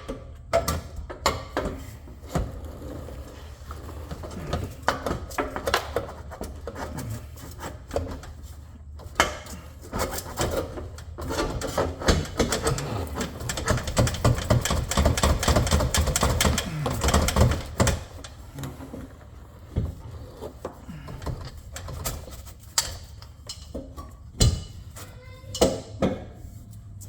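Tools and parts being handled in car repair work: scattered clicks and knocks, with a denser run of rapid clicking in the middle, over a steady low hum.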